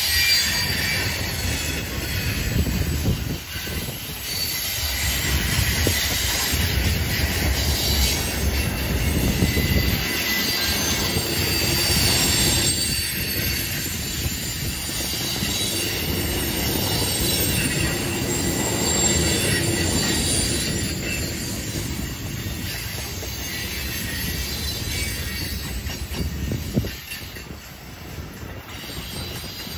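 Freight cars (covered hoppers and tank cars) rolling past on a curve, steel wheels squealing against the rail in high tones that come and go over the steady wheel noise. A single sharp clank near the end.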